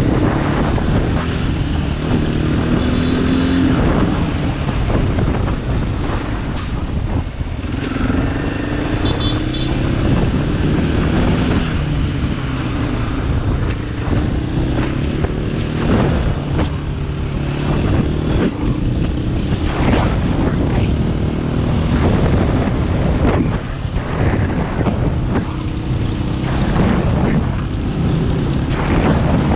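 KTM 500 EXC single-cylinder four-stroke dirt bike engine running under way, its note rising and falling again and again as the rider accelerates and eases off.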